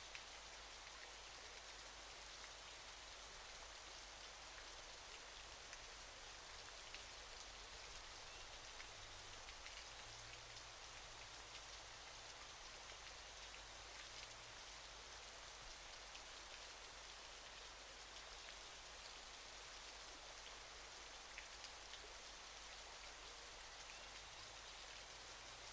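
Waterfall: a quiet, steady hiss of falling water, scattered with faint splashing ticks.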